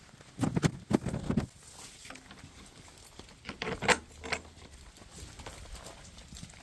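Two short clusters of clattering knocks and clicks, the first about half a second in and the second about three and a half seconds in, over faint background hiss.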